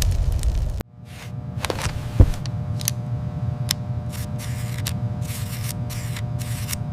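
A loud low rumble stops abruptly just under a second in. It gives way to a steady low hum with several fixed tones, scattered clicks and short hissing bursts, and one sharp thump about two seconds in.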